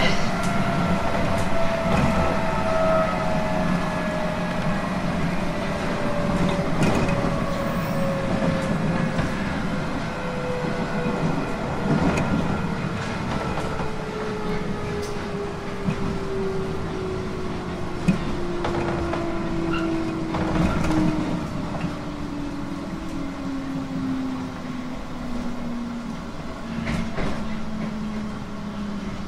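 JR East 719 series electric train running on the rails, its motor and gear whine falling steadily in pitch as the train slows, with occasional rail clicks over the running noise.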